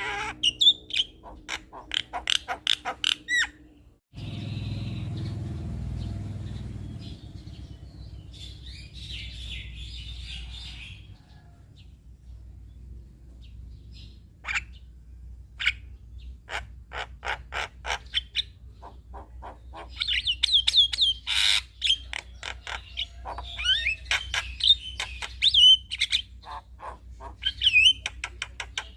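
Male Javan myna (jalak kebo) singing: fast clicking chatter, a sudden break about four seconds in, then scattered calls building to dense chattering and whistled notes in the second half.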